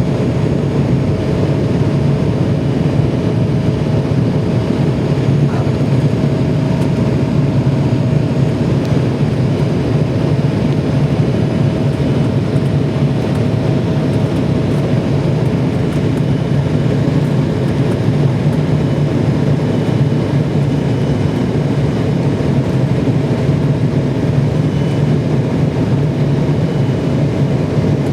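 Steady engine and airflow noise inside an airliner's cabin: a constant low noise with a thin steady hum, unchanging throughout.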